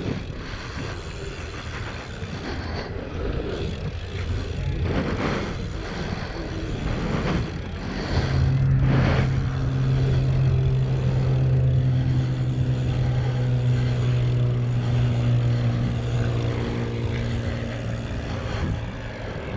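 Wind and movement noise on a helmet-mounted action camera during a BMX ride. From about halfway a steady low engine hum joins in and holds for roughly ten seconds before fading.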